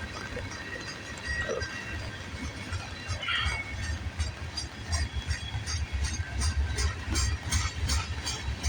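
Freight cars rolling past at track speed: a steady low rumble of wheels on rail, with rhythmic clicking of the wheels over rail joints, about three clicks a second, that grows louder through the second half.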